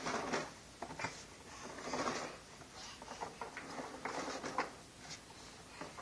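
A toddler's push-along toy truck rolling and scraping on the floor in short, irregular bursts, with a few light knocks.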